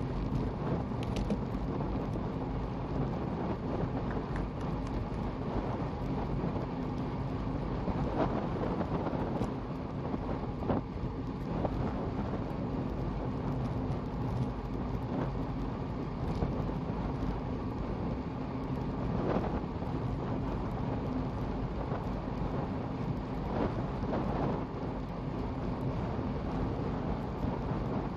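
Wind buffeting the microphone while moving along a road, over a steady road rumble with a faint continuous hum and a few scattered clicks.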